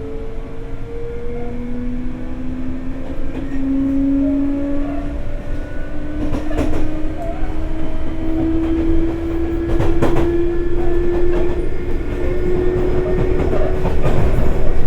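Sotetsu 8000 series train's Hitachi GTO-VVVF traction inverter and motors whining, the pitch rising in steps as the train accelerates, over the rumble of the running gear. A few wheel clacks over rail joints come in the second half.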